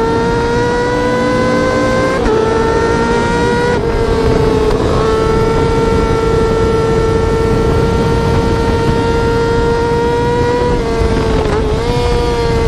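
Yamaha R6 inline-four sport-bike engine running at very high revs with a high, steady pitch that climbs slowly. The pitch dips sharply and briefly at gear changes about two, four, five and eleven seconds in.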